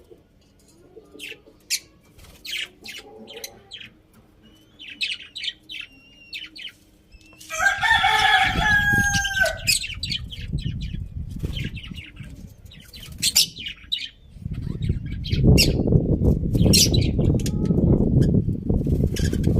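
Small birds chirping in short high notes, then a rooster crows once, a call of about two seconds about eight seconds in. A loud low rustling noise runs beneath from about eight seconds in and again over the last five seconds.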